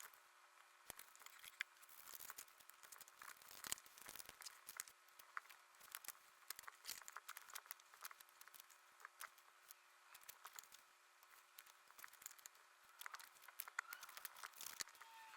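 Quiet paper handling: rustling and crinkling of paper and card, with scattered light clicks and taps.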